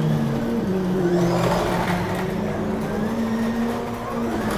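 Several 1/24-scale digital slot cars lapping the track, their small electric motors whining together and rising and falling in pitch as the cars speed up and slow down through the corners.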